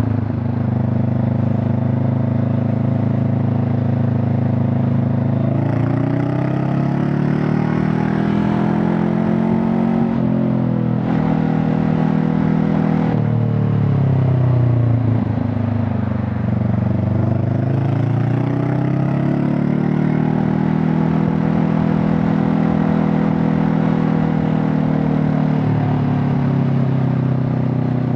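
Honda CB500 Hornet's parallel-twin engine and exhaust under way. The engine note climbs under throttle, dips, climbs again, falls away off the throttle, then rises once more and settles into a steady cruise for the last several seconds.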